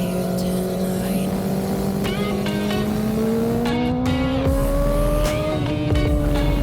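Honda CB400SF's inline-four engine running under way, its pitch climbing slowly and then easing off near the end, with electronic music playing over it.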